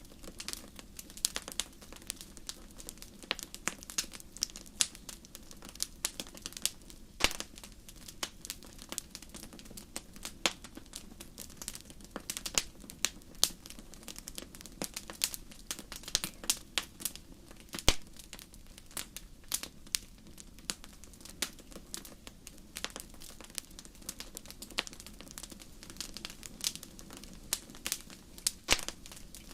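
Wood fire crackling in a fireplace: irregular sharp pops and snaps over a low steady rumble, with a few louder pops standing out.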